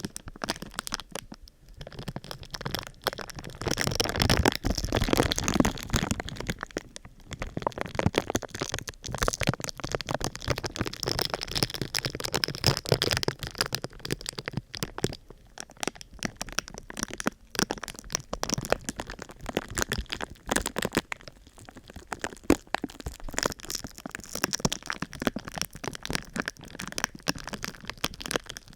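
Thin sheet material crinkled and crackled by hands close to the microphone: a dense, continuous run of sharp cracks and rustles, loudest for a couple of seconds about four seconds in.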